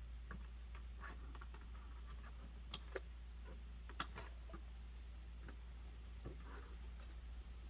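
Scattered light clicks and ticks at an irregular pace, with a few sharper ones near the middle.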